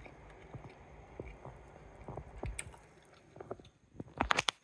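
Sharp kitchen knife slicing through smoked chicken breast on a cutting board: soft, moist cuts with light knocks of the blade, and a quick run of louder sharp clicks about four seconds in.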